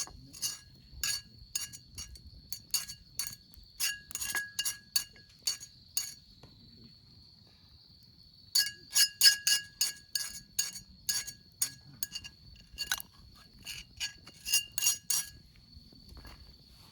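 A utensil repeatedly clinking against a ringing cup or pot, as in stirring, in two quick runs with a pause of about two seconds between them.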